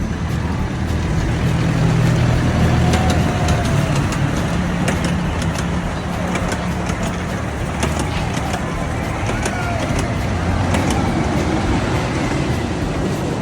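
Amusement park train running: a steady low engine drone with scattered sharp clicks and knocks from the running gear and track.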